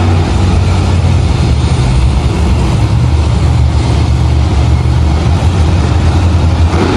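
Monster truck engine running loud and steady, a deep low rumble filling the arena.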